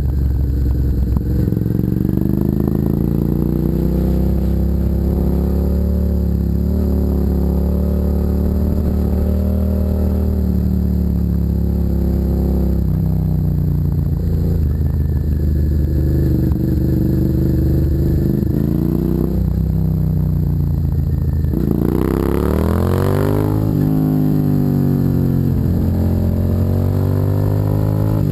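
Suzuki SV650's 645 cc V-twin running through a custom aftermarket exhaust while riding, holding a fairly steady pitch, then revving up sharply about three-quarters of the way through, dipping briefly and climbing again.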